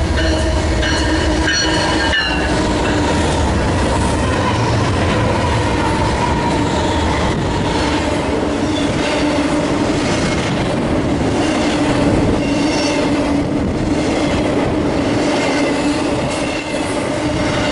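Freight train passing close by. The diesel locomotives' low rumble is strongest in the first couple of seconds, then the intermodal cars (double-stack containers and trailers on flatcars) roll past with steady wheel noise and a continuous squeal from the wheels.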